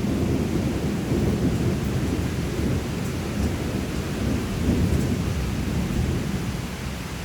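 Rolling thunder rumbling low and long over steady rain, swelling and easing in waves and dying down near the end.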